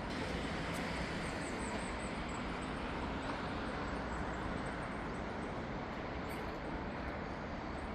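Steady hum of distant city traffic, with a few short runs of high, quick chirps over it.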